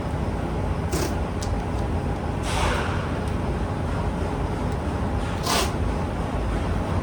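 Short bursts of hissing air, three of them, the middle one longer and fading, over a steady low rumble.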